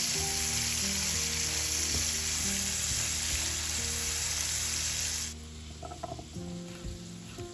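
Food sizzling as it fries in hot oil in a pan, a loud hiss that stops abruptly a little past five seconds in. Soft background music plays throughout.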